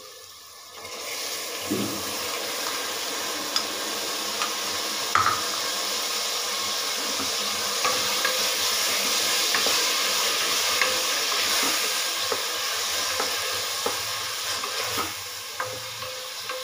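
Chopped tomatoes hitting hot oil and frying onions in a pressure cooker: a loud sizzle starts about a second in. A spatula scrapes and knocks against the pot as they are stirred in, and the sizzle eases a little near the end.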